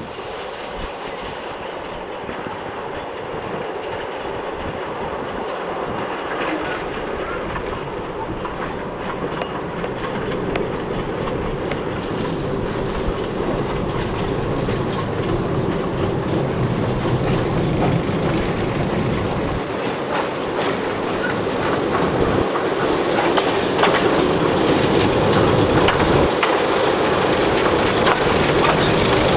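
Narrow-gauge industrial train running on the track, its wagons clattering over the rails with scattered sharp clicks, growing steadily louder as it approaches.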